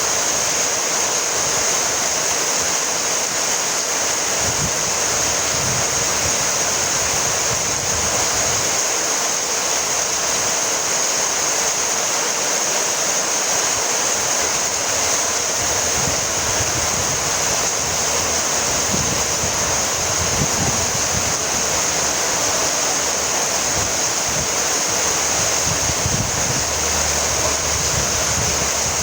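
Steady rainfall: an even, continuous hiss with no breaks or distinct drops standing out.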